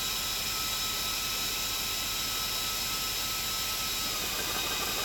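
Cooling fan of a 12-volt A3 PCP high-pressure air compressor running steadily with a thin whine. Near the end the tone shifts as the compressor is switched on and its pump starts a pulsing, knocking beat.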